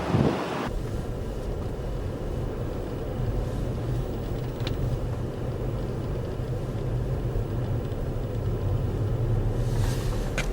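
Vehicle engine running with a steady low drone, after a brief rush of wind noise that cuts off within the first second.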